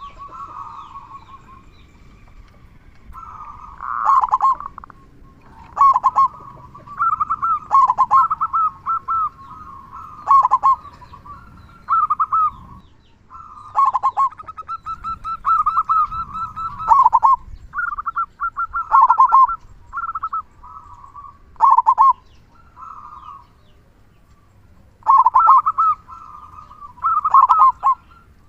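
Zebra dove (perkutut) singing: phrase after phrase of quick rolling coos, each phrase a second or two long, with short pauses between them and one longer lull near the end.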